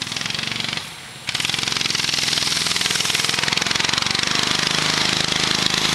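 Minibike's Honda GC160 single-cylinder four-stroke engine running hard, with rapid, even firing pulses. It drops off briefly about a second in, then comes back louder and holds steady.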